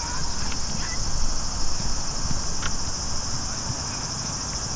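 Steady high-pitched chorus of insects, over a rough low rumble, with a couple of short sharp clicks.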